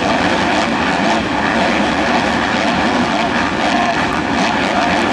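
Several motocross motorcycles racing together, their engines running hard at high revs in one loud, steady, continuous din.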